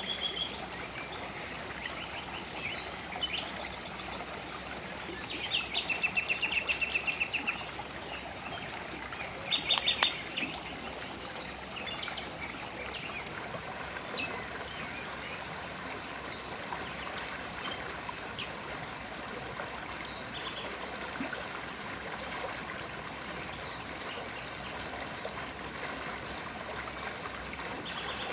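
The Gévora river flowing steadily with a constant rushing sound, with small birds calling over it. The loudest bird sounds are a rapid, even trill lasting about two seconds, about six seconds in, and a short burst of calls around ten seconds in.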